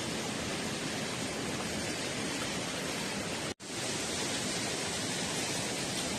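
Steady, even rushing noise with no distinct sounds in it, broken by a momentary dropout about three and a half seconds in.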